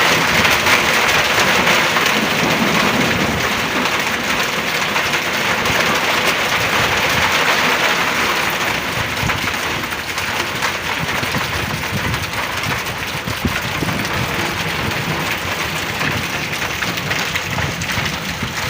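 Heavy rain pouring down in a steady, dense hiss that eases slightly about halfway through.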